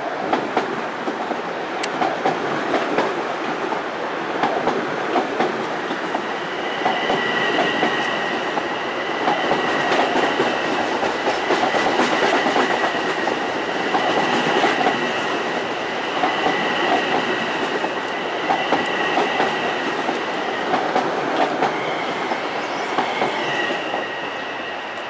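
Long Island Rail Road M7 electric train running past along the platform, its wheels clacking in regular clusters over the rail joints. A steady high-pitched whine joins about seven seconds in and lasts until near the end.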